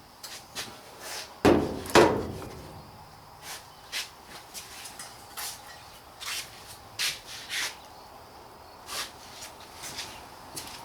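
Two loud clanks with a brief ring, about a second and a half and two seconds in, then a run of short scraping strokes: metal pieces and tools being handled and rubbed during rusted rocker-panel repair work.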